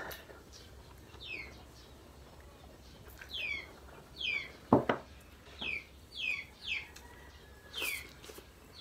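Bird chirping: a string of short chirps that each fall in pitch, repeated every half-second to second or so. Two sharp knocks are heard, the louder one about halfway through.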